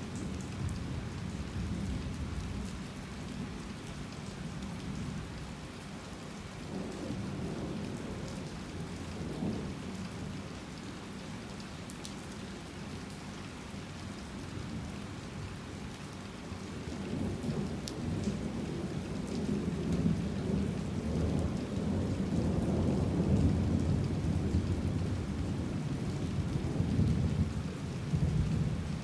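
Heavy rain falling steadily with the low rumble of thunder rolling through, swelling louder over the second half.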